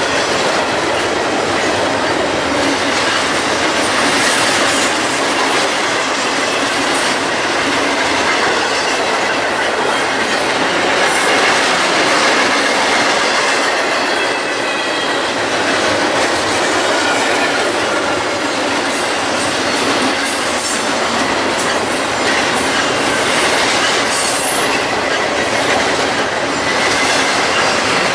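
Double-stack intermodal freight train passing close at speed: a steady rumble and clatter of wheels over the rails, with a faint high wheel squeal at times.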